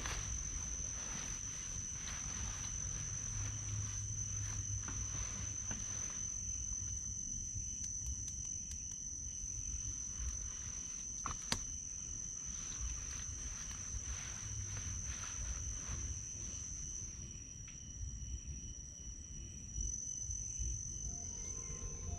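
Insects trilling in one steady, unbroken high-pitched tone, over a low rumble, with a few faint clicks and one sharper click about halfway through.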